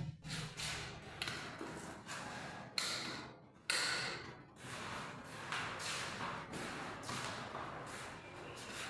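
Broom sweeping a floor: a run of short, brushing strokes, two or three a second, with a few taps and thumps between them.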